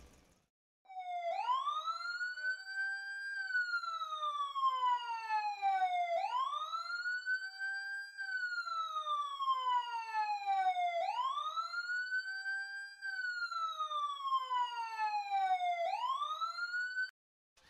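Electronic police siren wailing: a slow rise and longer fall in pitch, repeating about every five seconds. It starts about a second in and cuts off suddenly near the end.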